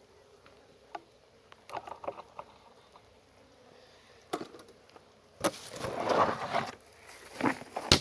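Wooden beehive frames and hive parts being handled: a few light knocks and clicks, then a longer rustling scrape about five and a half seconds in and another near the end, with honey bees buzzing faintly.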